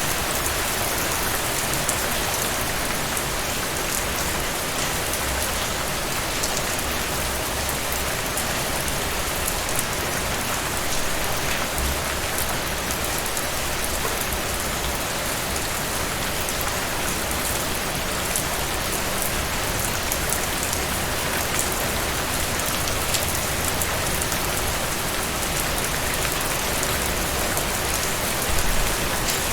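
Steady rain falling on a surface, an even dense hiss with scattered distinct drop ticks. A short low thump comes near the end.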